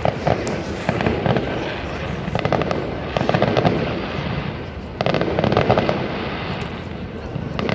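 Fireworks display: aerial shells bursting in a run of crackling volleys, with a sharp new burst about five seconds in.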